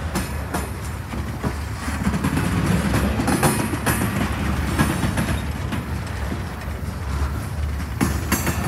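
Freight train of boxcars rolling past close by: a steady rumble of wheels on the rails, with irregular clicks and clanks from the wheels and cars.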